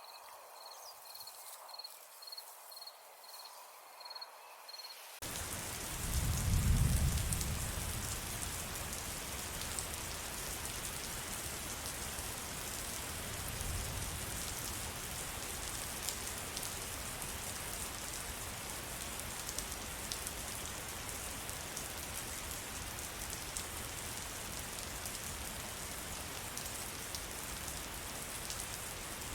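Rain falling in a forest: a dense, steady hiss of rain that starts abruptly about five seconds in, with a low rumble a second or two later and a fainter one about fourteen seconds in. Before the rain comes in there is a quieter stretch with a row of short high pips.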